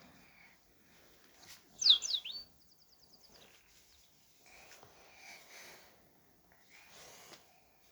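Cockatiel giving one loud, sharp chirp about two seconds in, followed straight away by a quick run of short high ticking notes; faint soft noises otherwise.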